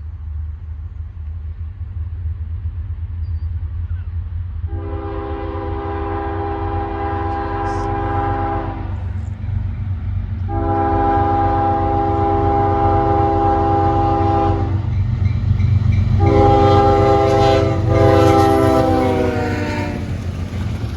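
CSX ES40DC locomotive horn sounding the grade-crossing signal, long, long, short, long, over the low rumble of the approaching train, which grows louder. The last blast drops in pitch near the end as the locomotive passes.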